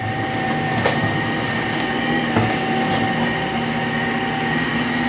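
Dyson V15s Detect Submarine cordless stick vacuum running steadily over a hard floor with dry cereal, its motor giving a constant high whine, with a couple of short clicks about a second and two and a half seconds in.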